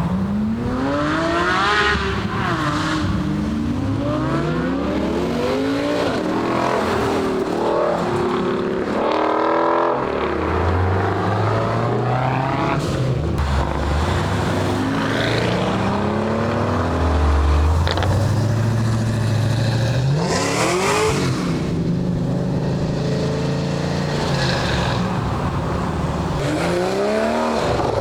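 Several cars accelerating away one after another, their engines revving up, shifting and passing by in overlapping waves. A deep, steady engine note runs through the middle, and one loud rising pass comes about twenty seconds in.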